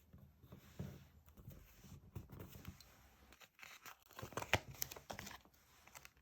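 Stickers and paper being handled: tearing and crinkling, with a dense run of crackly rustling in the second half.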